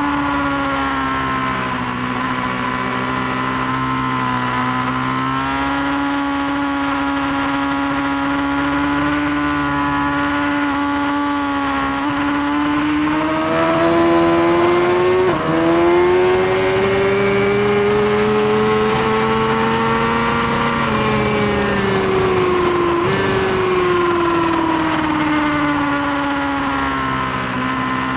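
A 2018 Suzuki GSX-R1000R's inline-four engine running hard, heard from on board. Its pitch climbs slowly, then falls again toward the end, with two short sharp dips partway through.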